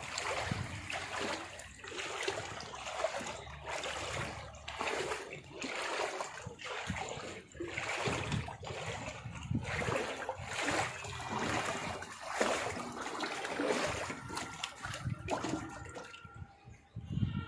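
Water splashing and trickling in uneven surges about once a second, fading out near the end.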